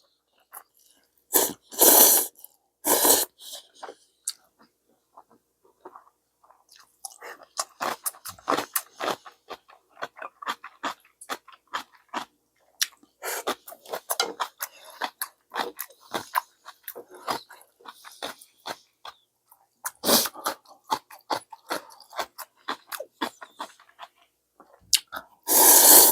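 A person eating instant ramen: a few loud slurps of noodles, about two and three seconds in, near twenty seconds and at the end, with quick wet chewing sounds in between.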